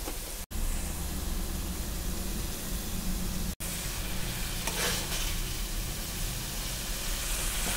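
Spiced onion-tomato masala sizzling in oil in a kadai, cooking down until the oil begins to separate. The steady sizzle cuts out for an instant twice, once near the start and once about three and a half seconds in.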